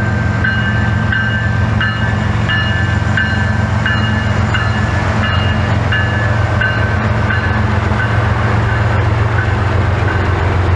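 Diesel-electric freight locomotives running under load as a CSX manifest train gets moving, a steady low rumble, with a bell dinging about one and a half times a second.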